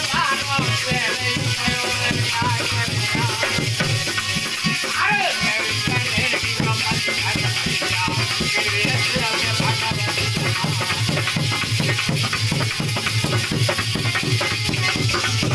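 Instrumental interlude of Alha folk music: drums playing a fast, even rhythm with a shaker rattling along.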